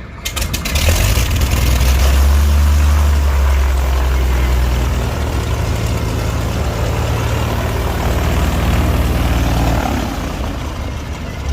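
A heavy engine running steadily with a low drone, easing off near the end.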